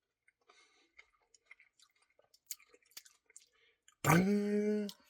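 Soft, wet mouth clicks of someone eating cookie dough ice cream, followed near the end by a loud, steady hum from the eater lasting just under a second.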